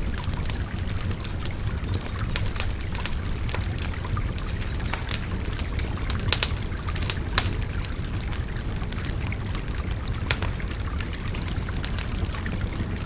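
Wood fire crackling, with frequent sharp, irregular pops over the steady rush of a babbling river.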